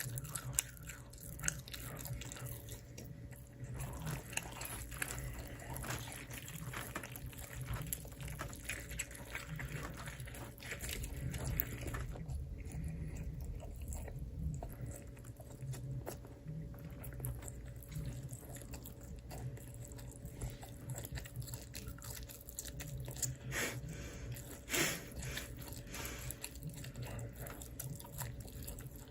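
Close-miked eating sounds: irregular biting, chewing and small crunches, over a steady low hum.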